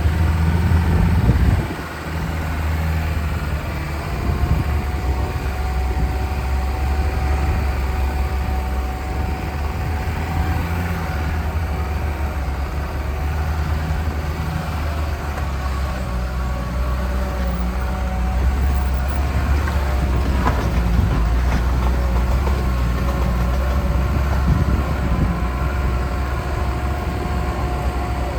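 Lada Niva's four-cylinder engine running steadily as the car is driven along an off-road track: a continuous low engine drone, with a louder noisy rush in the first couple of seconds.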